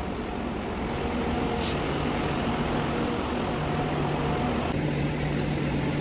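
An SRT high-speed train approaching, heard as a steady low rumble with a faint hum that slowly grows louder. A brief hiss comes about a second and a half in.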